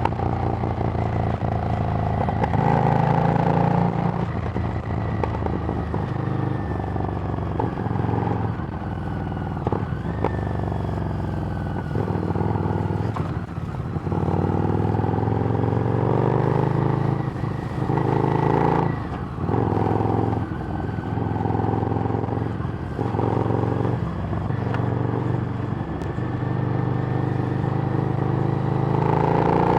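Harley-Davidson Street Rod's V-twin running through a Screamin' Eagle exhaust while riding. The revs climb and drop several times as the bike accelerates, shifts and eases off.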